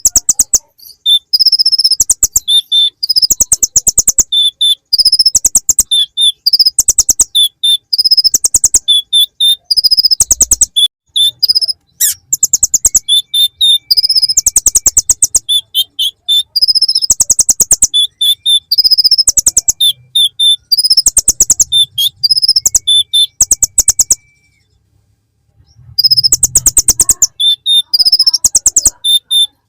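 Konin (kolibri ninja), a sunbird, singing loud, fast high trills and sharp chirps in repeated phrases, its song filled with mimicked bar-winged prinia (ciblek) phrases. The singing breaks off briefly near the end, then resumes.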